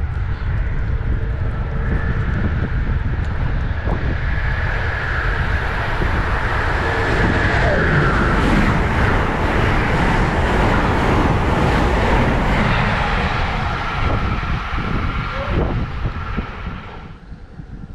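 A train passing: a dense rumble with a faint whine that swells to a peak around the middle and falls away near the end.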